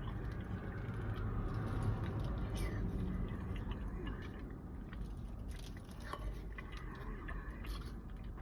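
A person eating peaches in maple syrup with a spoon: wet chewing with a few sharp little clicks, over a low steady rumble.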